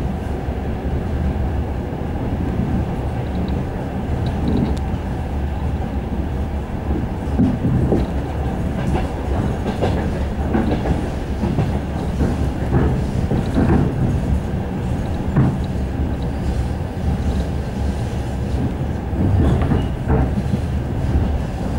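Suburban train running, heard from inside the carriage: a steady low rumble with short, irregular clickety-clack knocks of the wheels on the track, coming more often in the second half.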